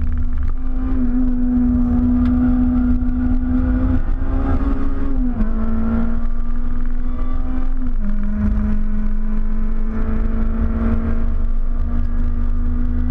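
Supercharged K20 four-cylinder in a Honda Civic race car, heard from inside the cabin as it drives hard on track. The engine note holds steady, dipping briefly about five seconds in and stepping down slightly about eight seconds in. A heavy low road and tyre rumble runs underneath.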